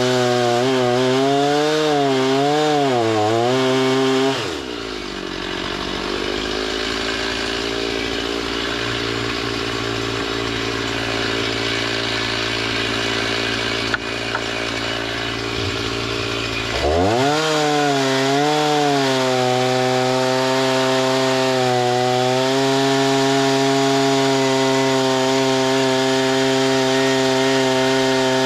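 Chainsaw engine running at high revs with a wavering pitch. About four seconds in it drops suddenly to a lower, rougher note, and about 17 seconds in it climbs back to high revs and holds steady.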